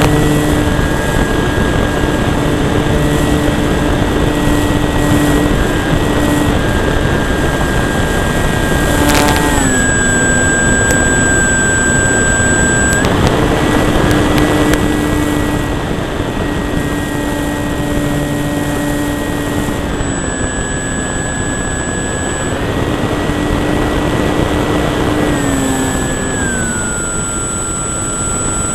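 Electric motor and propeller of a Durafly Cessna 182 RC model plane, heard close up from the cowl in flight: a steady whine over rushing wind. The pitch steps down and back up twice, then drops again near the end, as the throttle is eased back and reopened.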